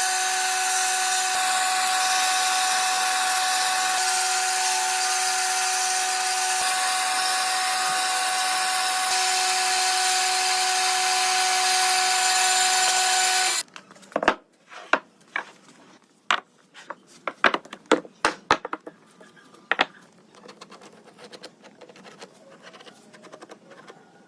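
An electric power tool working wood, running at a steady whine, cuts off suddenly about 14 seconds in. A scatter of sharp knocks and clicks of wood being handled follows for several seconds.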